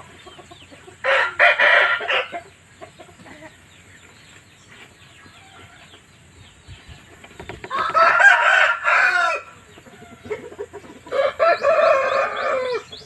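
Shamo and Asil game roosters crowing three times: a short crow about a second in, then two longer crows, one around eight seconds and one near the end. Soft clucking and chirping carry on between the crows.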